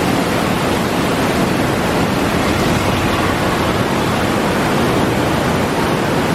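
Floodwater rushing through the fully raised shutters of a river regulator-cum-bridge, a loud, steady roar of water.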